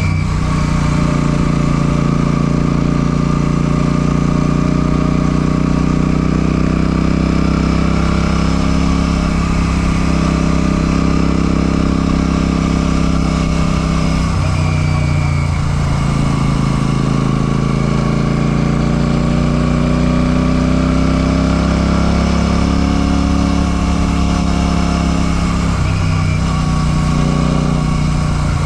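Royal Enfield Classic 650's 648 cc parallel-twin engine running under way. Its revs dip sharply twice, about halfway and near the end, then climb steadily again.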